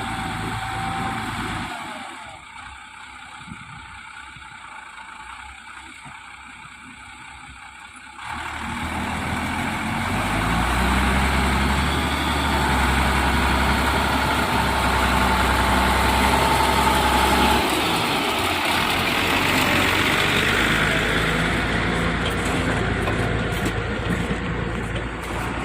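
Tractor engine running, quieter for a few seconds, then suddenly louder and running steadily from about eight seconds in.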